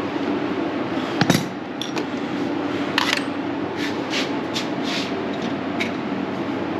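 Metal tools clinking and scraping against a bolt hole and small parts, a series of short sharp clicks over a steady hum.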